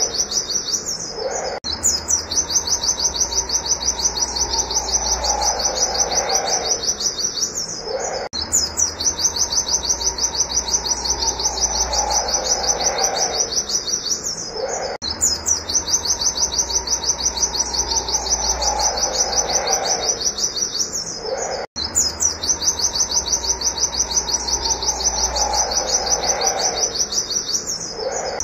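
Pleci (white-eye) singing its rapid, high-pitched 'wit-wit' shooting call, a fast unbroken run of short repeated notes. Short breaks recur about every six and a half seconds in a cycle that repeats identically, and a lower call sounds under each cycle.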